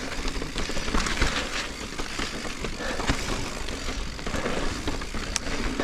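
Giant Reign full-suspension mountain bike being ridden along a dirt and rock trail: tyre noise and a steady low rumble, with frequent small rattles and knocks from the bike, and one sharp tick near the end.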